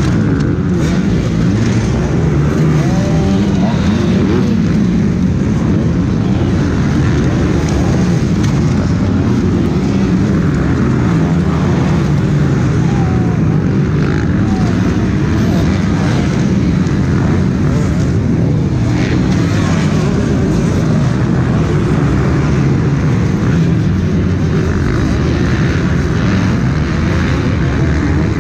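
Several MX2 motocross bikes racing around a dirt track, their engines overlapping in a steady, loud drone with some rising and falling revs.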